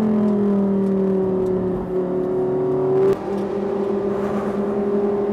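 Lamborghini Gallardo Super Trofeo race car's V10 engine, heard from inside the car, running at a steady part throttle on the pace lap. The note sags slightly, briefly dips about three seconds in, then holds a little higher.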